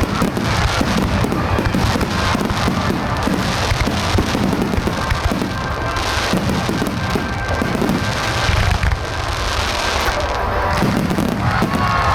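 Aerial fireworks shells bursting in quick, overlapping succession: a dense run of booms and crackle.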